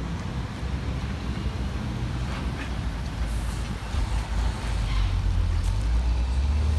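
A truck engine running with a steady low rumble that grows louder about four seconds in.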